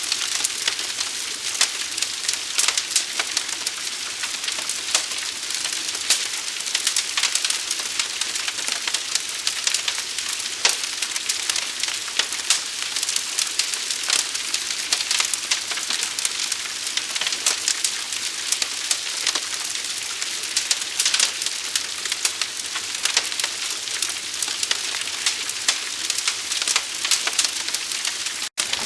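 Forest fire burning, a dense, irregular crackling and popping over a steady hiss. It cuts out for a moment near the end.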